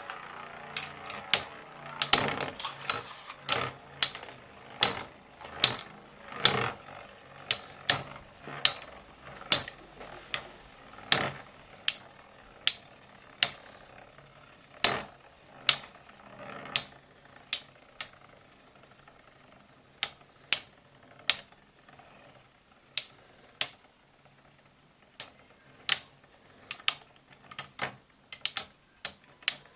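Two metal Beyblade spinning tops battling in a stadium: sharp metallic clacks with a short ring, one or two a second at irregular intervals, as the tops collide with each other and the stadium walls. A few brief pauses break up the clacks.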